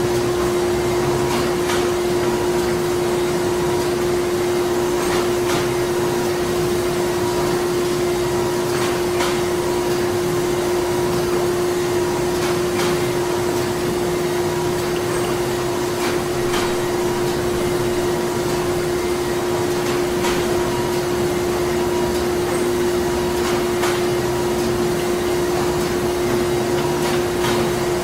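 Printing-plant machinery running steadily: a constant hum with a dense mechanical whir over it, and faint clicks every second or two.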